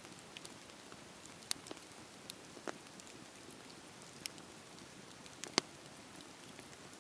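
Fireplace fire crackling: a low, steady hiss with scattered sharp pops, the loudest about five and a half seconds in.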